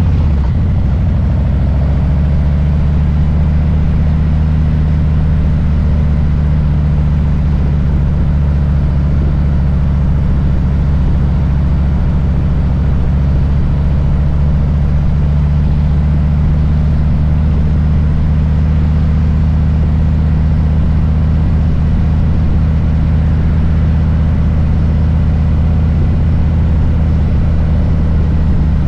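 Harley-Davidson Low Rider S's Milwaukee-Eight V-twin running at a steady, unchanging engine speed, a deep, even rumble.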